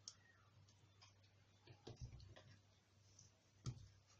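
Near silence over a faint low hum, with a few faint clicks and small knocks from a knife working on a mackerel as it is opened along its back; the loudest knock comes near the end.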